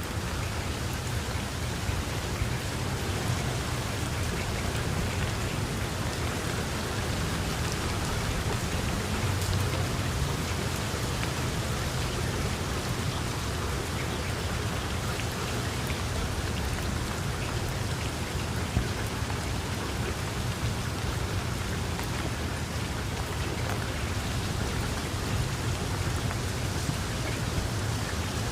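Heavy rain falling steadily: a dense, even hiss of drops with a low rumble underneath.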